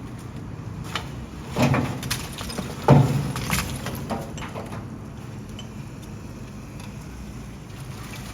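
Heavy truck engine running steadily, with two loud bangs about a second apart near the start and a few lighter knocks around them.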